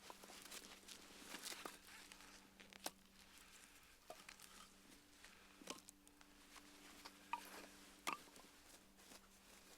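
Campfire of burning wood crackling faintly, with a soft hiss and scattered sharp pops, the loudest about three, six, seven and eight seconds in.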